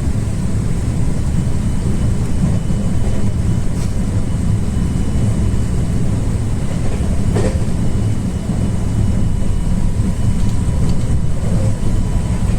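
Train running: a steady low rumble of wheels on rail, with a few faint clicks.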